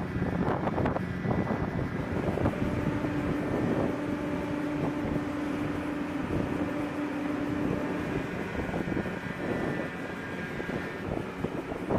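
Aircraft engines running: a continuous rumbling noise, with a steady hum in it from a few seconds in until past the middle.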